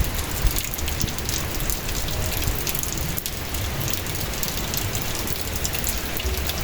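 Strong wind blowing with rain: a steady rushing noise with a low rumble underneath.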